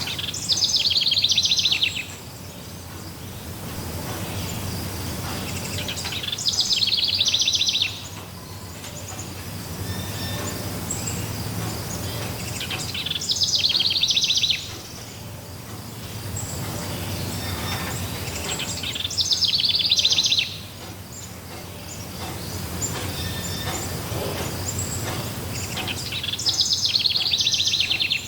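A songbird singing one fast trilled song phrase, about a second and a half long, repeated five times at roughly six-second intervals, over a steady low background rumble.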